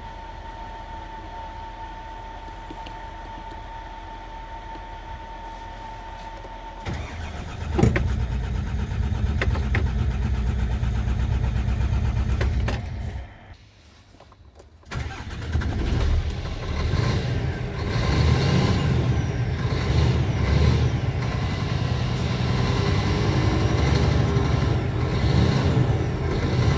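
Scania R450 truck's 13-litre inline-six diesel engine cranked and started about seven to eight seconds in, after a steady high hum, then running at idle. The sound drops out briefly midway, and the engine then runs on, louder.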